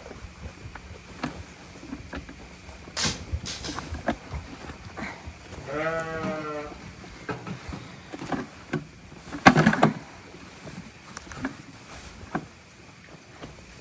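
A single wavering bleat from a sheep or goat, about a second long, near the middle. Around it are scattered knocks and rustling, the loudest a burst of rustling about two-thirds of the way through.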